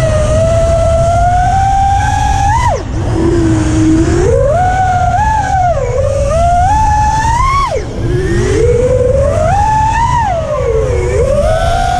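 FPV quadcopter's brushless motors (APEX Macaw 2207.6 2675kv) whining, the pitch climbing and sagging with throttle; the throttle is chopped twice, about three and eight seconds in, and the whine dives low before climbing again. A constant low rumble of air noise runs underneath.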